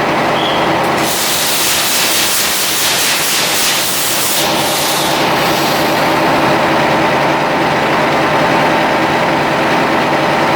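Ship's diesel machinery running steadily, with a loud rushing hiss from about one to five seconds in.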